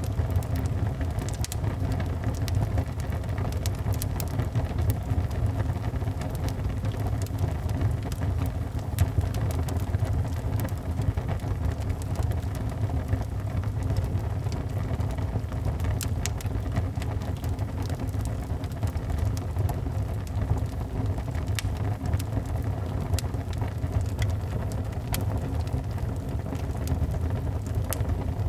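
Rain-and-fireplace ambience: rain in a steady low rumble, with scattered sharp crackles and ticks on top.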